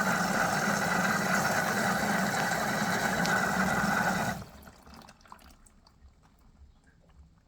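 Water rushing into an LG washing machine drum through the inlet valve at high mains pressure, a loud steady rush that cuts off abruptly about four seconds in, leaving faint ticks.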